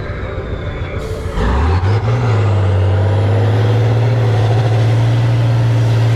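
A heavy off-road trial truck's engine revs up over about a second, then runs loud and steady at high revs under load.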